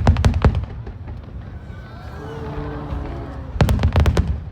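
Aerial fireworks shells bursting in two quick volleys of sharp bangs, one right at the start and another about three and a half seconds in.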